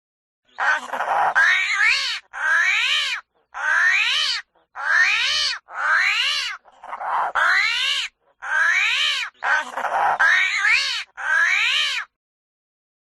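An animal calling repeatedly, about ten pitched calls each under a second long, each rising and then falling in pitch.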